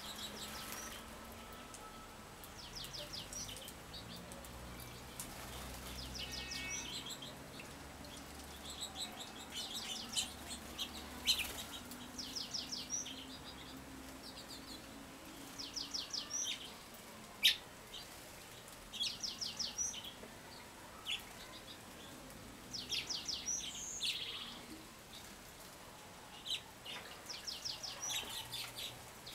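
Wild songbirds singing: one bird repeats a short phrase of rapid high notes about every three seconds, with single sharp chip calls from other birds in between.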